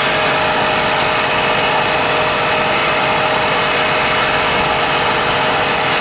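A machine running steadily and loudly, an even roar with a constant hum that does not change.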